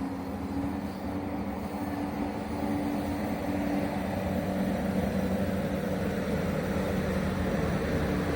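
Train running at the station: a steady rumbling hum with low drawn-out tones, growing gradually louder.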